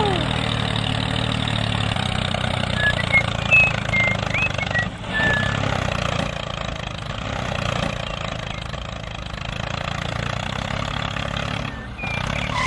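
Tractor engine running steadily at idle, with a few short high chirps about three to five seconds in.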